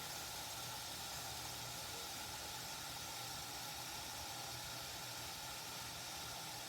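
Govee smart electric gooseneck kettle heating water toward 200 °F, a steady even hiss.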